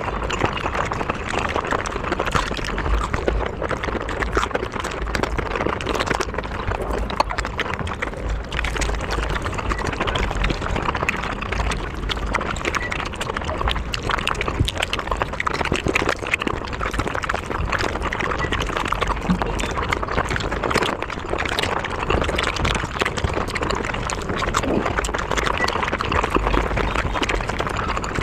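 Close-miked eating sounds: chicken being bitten and chewed, a dense, continuous crackle of crunches and wet mouth smacks.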